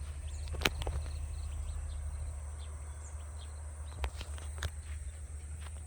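Rural outdoor ambience: a steady high insect drone with a few faint bird chirps over a low rumble. A few sharp clicks come through, one under a second in and two more about four to five seconds in.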